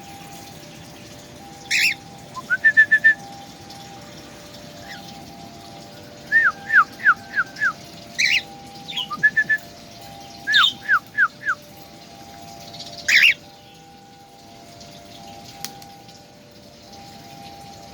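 A songbird calling in short bursts: groups of three to five quick, ringing whistled notes, with a few harsher, sharper single calls in between. It goes quiet for the last few seconds.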